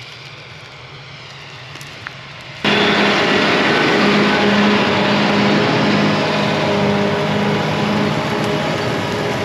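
Tractor engine running steadily while pulling tillage equipment across a field, faint at first and then suddenly much louder and close about two and a half seconds in.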